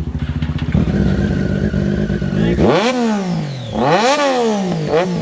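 Sport motorcycle engine running at a low, steady throb, then revved hard up and down about three times from around halfway through.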